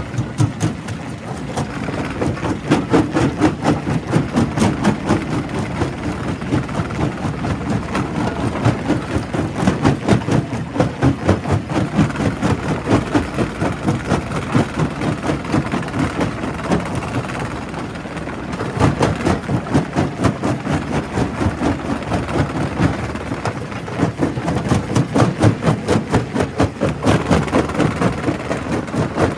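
Primary rock crusher at a quarry crushing stone: a rapid, fairly regular knocking and clattering over a steady low machine rumble, easing briefly about two thirds of the way through.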